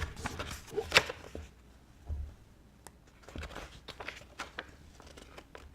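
Light scattered clicks and soft rustling handling noises, with one sharper tap about a second in.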